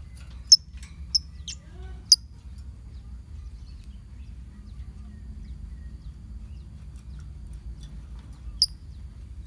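Lovebirds in a colony giving short, sharp chirps: a quick run of four in the first two seconds and one more near the end, over a low steady background hum.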